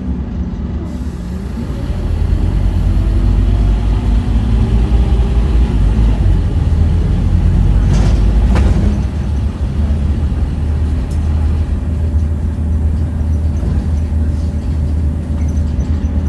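Scania N230UD OmniCity double-decker bus with its diesel engine running under way, growing louder as it pulls harder about two seconds in. A short hiss of air comes around eight seconds in.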